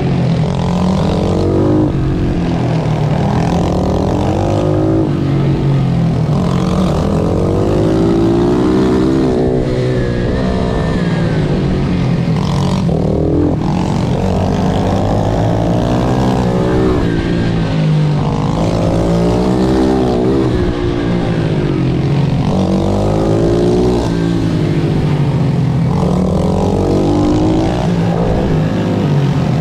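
Pit bike's single-cylinder engine racing, revving up and dropping back over and over as it accelerates, shifts and brakes for corners.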